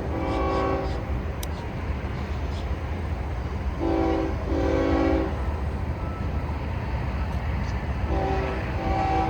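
Diesel locomotive's air horn sounding in three pairs of blasts, a shorter then a longer one, about every four seconds, over the steady low rumble of the passing train.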